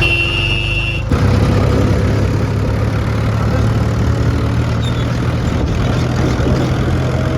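Diesel farm engine of a tractor or combine harvester running steadily. A high steady beep sounds for about the first second.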